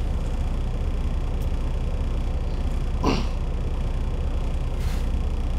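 Semi truck's diesel engine running steadily with a low, even rumble. A brief short sound cuts in about three seconds in.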